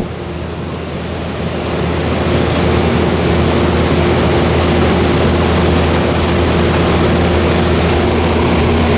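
Carrier 36,000 BTU window heat pump running in cooling mode: a steady low compressor hum under the even rush of the fan. It grows a little louder about two seconds in, then holds steady.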